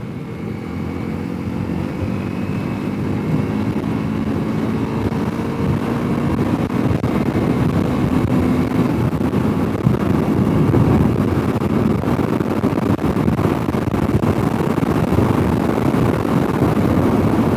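Honda CRF300L's single-cylinder four-stroke engine pulling as the motorcycle accelerates, its note rising gradually and getting louder, under a steady rush of wind and wet-road noise.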